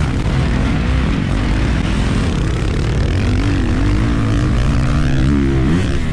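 Dirt bike engine running under a rider, its revs rising and falling repeatedly over a heavy low rumble.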